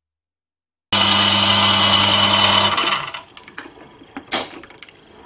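Electric mini metal lathe running with a steady hum and high whine over a hiss. It starts suddenly and stops after about two seconds. Light clicks and knocks follow.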